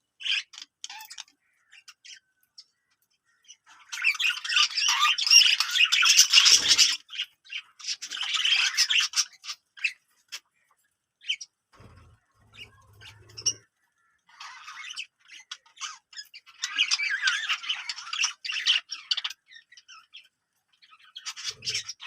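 Budgerigars chattering and squawking in bursts of a few seconds, with quiet gaps between.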